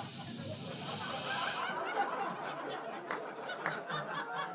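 Audience laughing in a theatre after a stand-up punchline, with a short hiss at the start.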